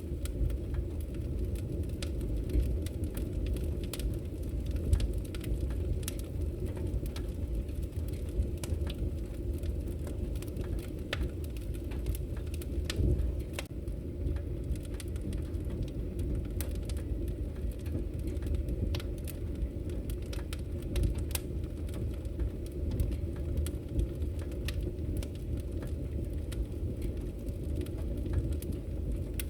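Wood fire crackling in a fireplace: a steady low rumble of flames with frequent, irregular sharp pops and crackles.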